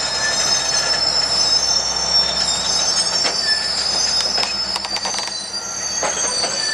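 A slow-rolling circus train's steel wheels squealing against the rails in several steady high-pitched tones, with a few sharp clicks of wheels over the track.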